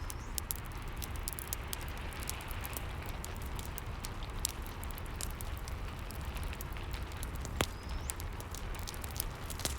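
Rain and fireplace ambience: a steady hiss of rain under frequent sharp crackles and pops of burning wood, with one louder crack about three-quarters of the way through.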